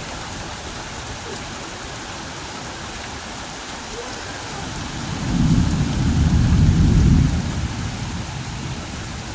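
Steady rain falling, with a low rumble of thunder swelling about five seconds in and fading out over two to three seconds.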